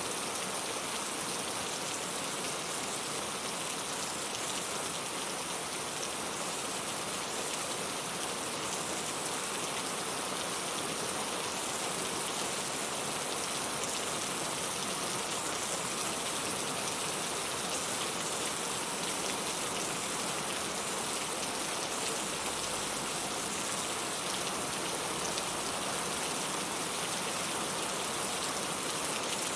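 Steady rain falling, an even hiss of many drops with fine patter on a surface.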